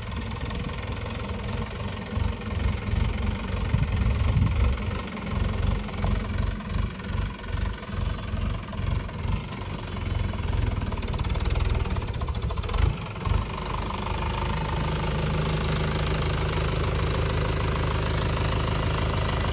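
Tractor diesel engine running unevenly with a pulsing, knocking note, then a sharp knock, after which it settles into a steady idle for the last few seconds.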